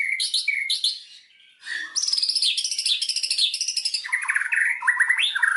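White-rumped shama (murai batu) song: a repeated two-part phrase about twice a second, a brief break just after a second in, then fast rattling trills that change pitch, dropping to a lower trill near the end.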